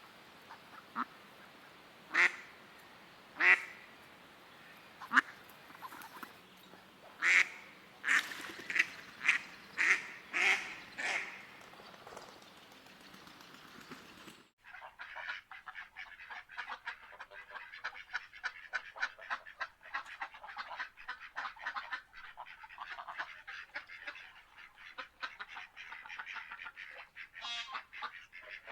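Ducks quacking in loud single calls and short runs. About halfway through, this gives way to a steady, quieter chatter of many birds calling together.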